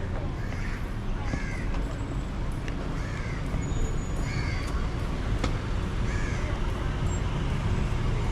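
A bird giving short, repeated calls about once a second, over a steady low rumble.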